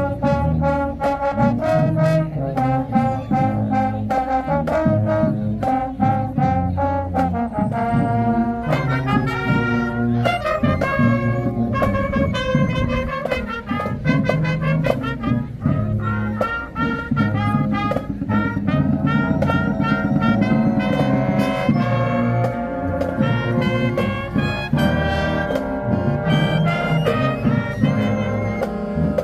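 High school marching band playing: trumpets, trombones and other brass carrying the melody over low brass and drumline percussion.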